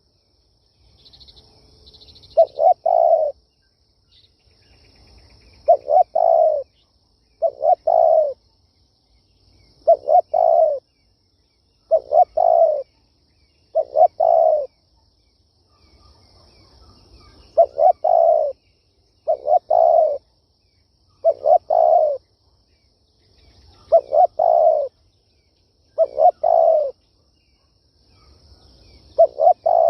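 Spotted dove cooing: a repeated phrase of a couple of short notes running into a longer coo, about one phrase every two seconds.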